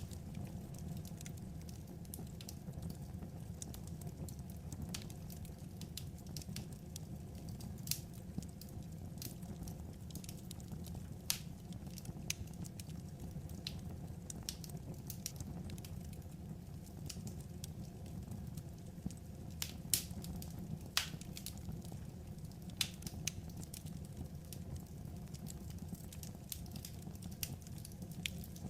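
Burning firewood crackling, with irregular sharp pops over a steady low rumble of the fire.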